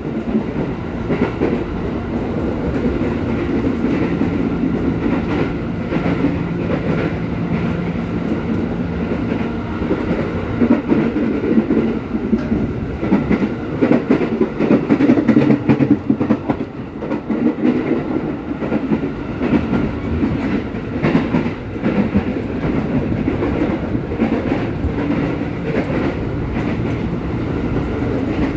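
Commuter electric train running at speed, heard from inside the passenger carriage: a steady rumble of the wheels on the rails with irregular clickety-clack clatter from the track.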